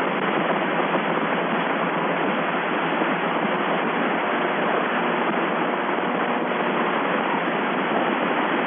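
Steady hiss of an open radio voice channel with no one talking, narrow and thin in tone like a telephone line.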